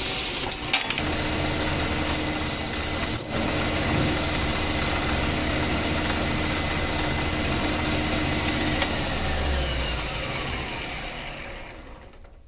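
A power tool's motor running steadily, with a sharp click about three seconds in, then winding down and fading near the end.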